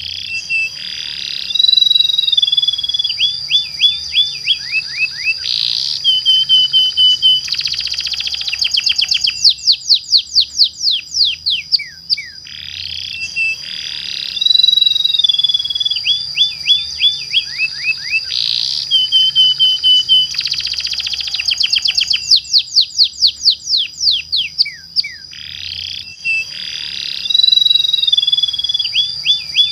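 Domestic canary singing a long, rolling song of fast trills and sweeping whistles. The same run of phrases repeats about every twelve seconds.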